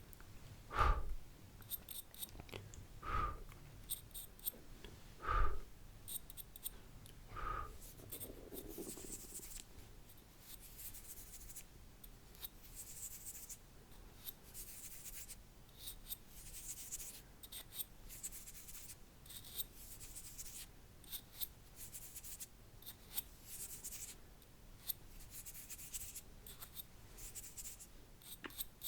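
Close-miked ASMR mouth sounds: four sharp wet mouth pops about two seconds apart, then a long run of soft, hissy brush-like swishes, repeated in short strokes, as in mimed spit painting.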